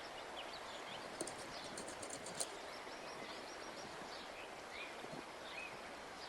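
Faint outdoor background with small birds chirping now and then. A few light clicks come between about one and two and a half seconds in.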